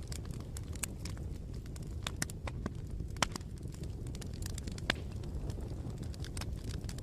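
Bonfire crackling: irregular sharp pops and snaps of burning wood over a steady low rumble of the flames, with two louder pops about three and five seconds in.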